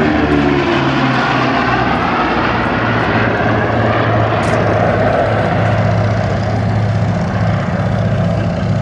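Boeing B-29 Superfortress's four Wright R-3350 radial engines and propellers droning loudly in a high-speed flyby. The engine pitch drops over the first couple of seconds as the bomber passes, then holds steady as it moves away.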